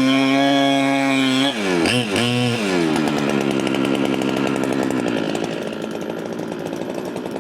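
Large Holzfforma clone two-stroke chainsaw held at full throttle, then let off about a second and a half in, blipped twice, and dropping back to a lower, rhythmic idle.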